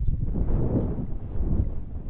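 Wind buffeting the microphone: an irregular low rumble, with a broader rush of noise in the middle.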